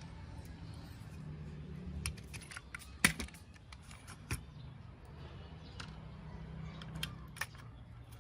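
A series of small, sharp clicks and taps at irregular intervals, the loudest about three seconds in, over a steady low hum.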